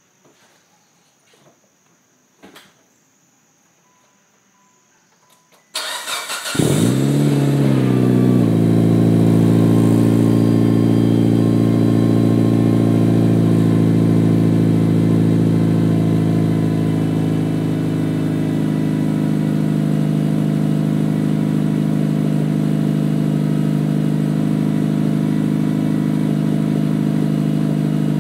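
Mitsubishi Lancer Evolution IX's turbocharged 2.0-litre 4G63 inline-four, fitted with an AMS turbo-back exhaust, cranking and catching about six seconds in, flaring briefly, then settling into a steady idle that steps down a little twice as it runs. A few faint clicks come before the start.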